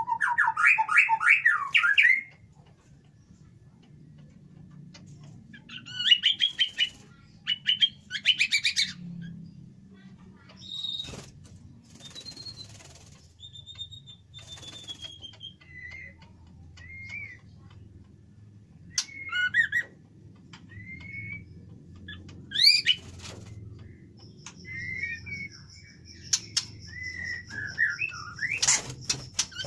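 White-rumped shamas (murai batu) calling. There are bursts of rapid chattering notes near the start and again about six to nine seconds in, then scattered short whistles and rising and falling calls. A steady high thin tone comes in about two-thirds of the way through.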